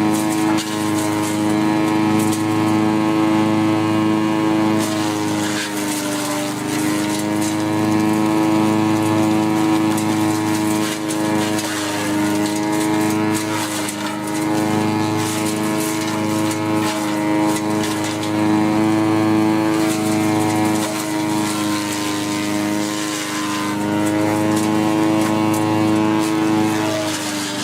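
Engine of a homemade wood chipper running steadily at speed. Its pitch sags briefly a few times and recovers, as the machine takes load.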